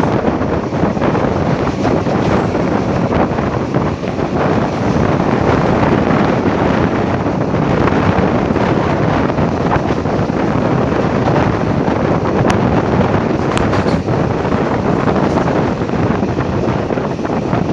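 Wind rushing over the microphone together with the steady running rumble of a moving train, with a couple of faint clicks about two-thirds of the way in.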